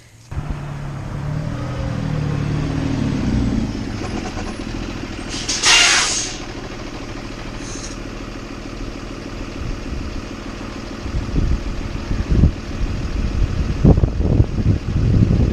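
School bus engine running as the bus pulls up and stops, with a loud short hiss of its air brakes about six seconds in and a fainter hiss a couple of seconds later. Irregular low bumps and rumble on the microphone near the end.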